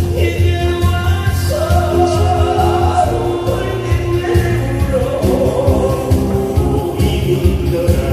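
A song sung live over accompanying music with a steady beat: the singer holds long notes with vibrato.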